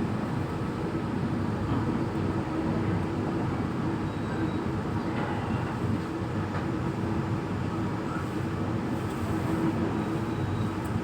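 Passenger train running, heard from inside the carriage: a steady low rumble from the wheels and running gear with no sharp events.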